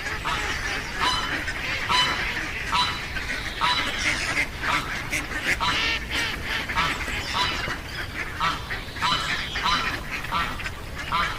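Ducks calling over and over: short, nasal, pitched calls, roughly one or two a second, some overlapping as if from several birds.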